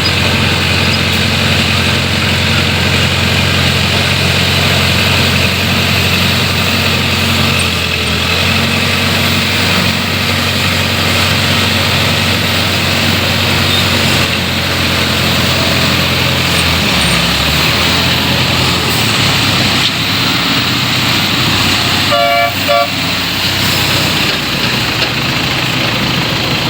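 A truck's engine runs with a steady low hum over busy street traffic noise, and the hum drops away about two-thirds of the way through. A vehicle horn gives a brief toot about 22 seconds in.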